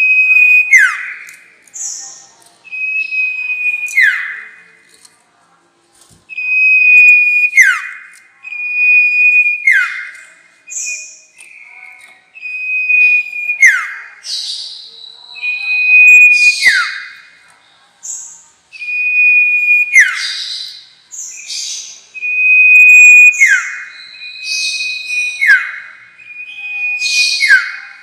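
Sirtu (bar-winged prinia) singing a lure call, repeated every two to three seconds: each phrase is a held high whistle that drops into a quick falling note, with short higher chirps in between.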